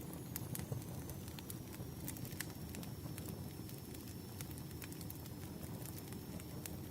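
Wood fire burning, with a dense low rumble of flames and frequent irregular sharp crackles and pops from the burning logs.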